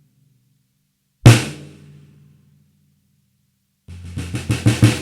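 A snare drum struck once, its tone ringing on for about a second. Near the end comes a quick run of strokes that grows louder.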